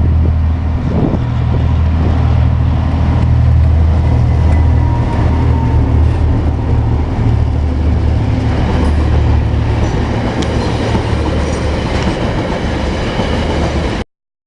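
Coal train rolling past, a loud steady low rumble from the wagons running on the rails. It cuts off suddenly just before the end.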